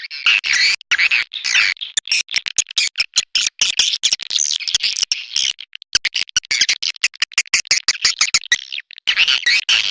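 Edible-nest swiftlet calling sound, a lure recording for swiftlet houses: dense, high-pitched twittering chatter in rapid short pulses, with brief pauses about six and nine seconds in.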